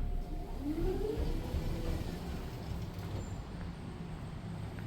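A steady low rumble, with a brief rising tone about a second in.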